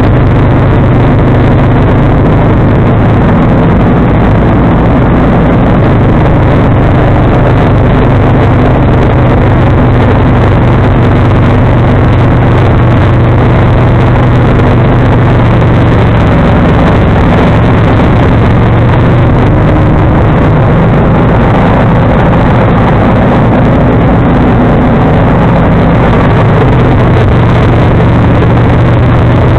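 John Deere 445 garden tractor's V-twin engine running loud and steady at constant speed, driving its 47-inch snowblower.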